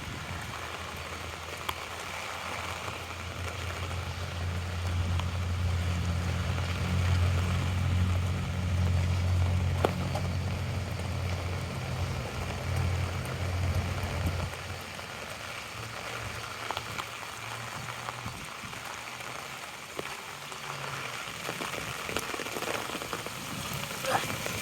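Steady rain pattering on an umbrella overhead. A low hum joins it a couple of seconds in, grows, and cuts off suddenly a little past the halfway point.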